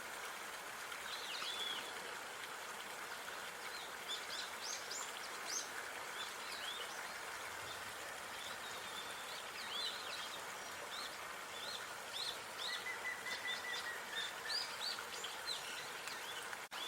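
Outdoor park ambience: small birds chirping repeatedly over a steady background hiss, with one longer thin high note about two-thirds of the way through.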